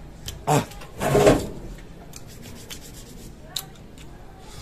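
Crunching and chewing of raw unripe green mango: a loud crunch about a second in, then a run of small crisp crunching clicks.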